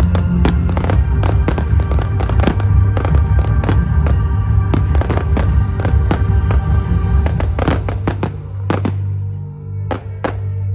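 Fireworks going off in a dense, rapid barrage of bangs and crackles, thinning to a few separate bangs over the last few seconds, over music with a heavy bass.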